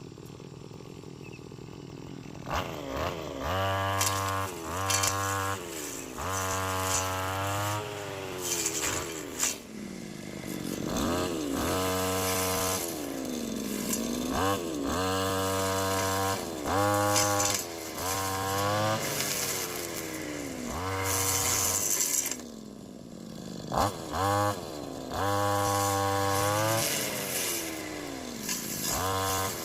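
Chainsaw revving in repeated bursts, its engine pitch sagging and recovering as it bites into wood.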